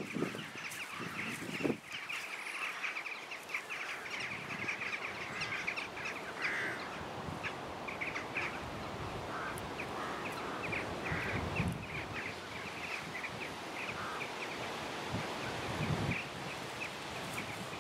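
Outdoor chorus of many small birds chirping and chattering without pause, with a few brief low sounds about a second in, midway and near the end.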